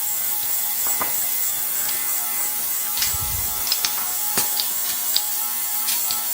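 Scattered light clicks and taps of hands working on a bicycle wheel and tyre, with a short low thump about three seconds in, over a steady hiss.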